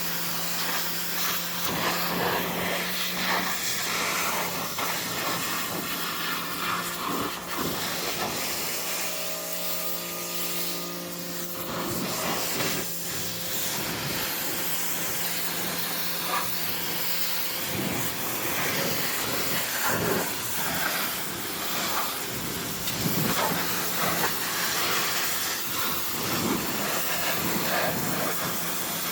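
Water spraying and splashing onto a motorcycle as it is washed: a steady hiss with irregular spatters. A low steady hum runs under it and stops about two-thirds of the way through.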